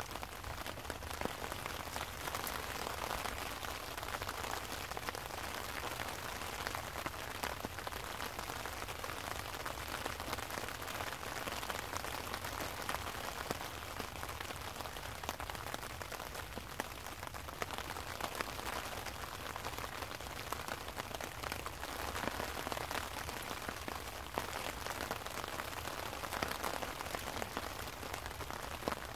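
Steady rain falling, with many single drops ticking through it.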